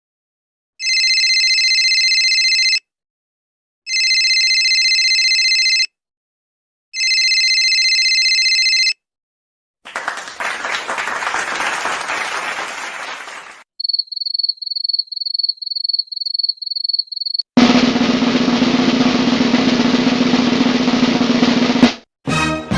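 A string of stock sound effects: a cell phone ringtone ringing three times, a burst of hand clapping, crickets chirping a few times a second, then a snare drum roll of about four seconds. Another effect begins right at the end.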